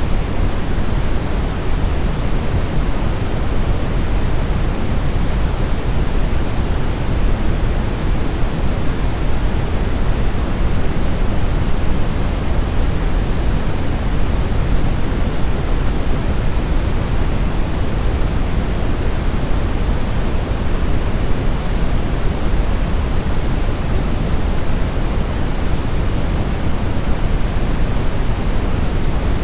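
Steady brown noise: an even, deep rumbling hiss weighted toward the low end, with no change or events.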